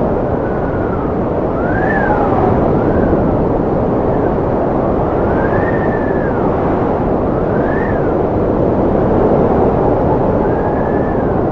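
Strong wind blowing with a steady rush, and a whistling howl that rises and falls in pitch every second or two.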